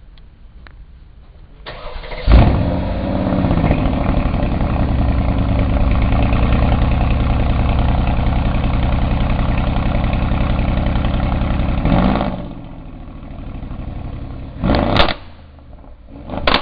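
A car engine starting with one loud flare of revs, then idling steadily for about ten seconds before it is switched off and winds down. Two short, sharp loud sounds follow near the end.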